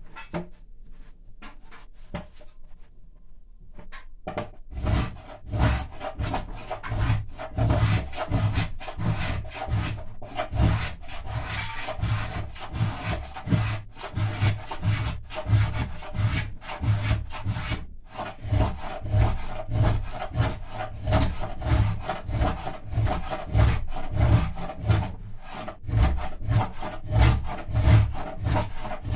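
A hand tool scraping and rasping mulberry wood in rhythmic back-and-forth strokes, about two a second, thinning the wall of a carved trough. A few light knocks come first, and the steady strokes start about four seconds in.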